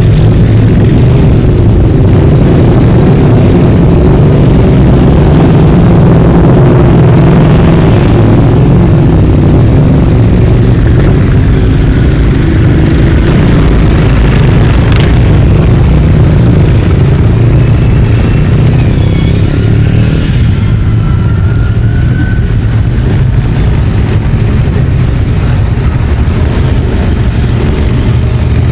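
Motorcycles riding past in a continuous procession, many engines running loud together with occasional revving.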